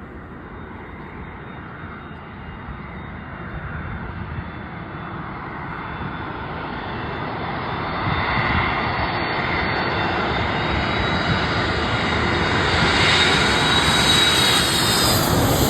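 Boeing 767-300 jet airliner flying in low overhead, its twin-engine jet noise growing steadily louder throughout, with a high whine rising over it near the end.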